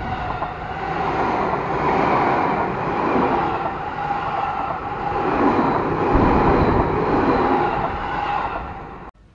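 Seibu 20000-series eight-car electric commuter train passing at close range: rumble of the wheels on the rails with a steady high tone over it. It builds over the first couple of seconds and cuts off suddenly near the end.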